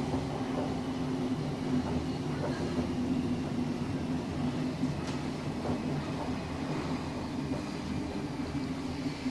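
Class 455 electric multiple unit running between stations, heard from inside the passenger carriage: a steady rumble of wheels on the rails with a constant low hum.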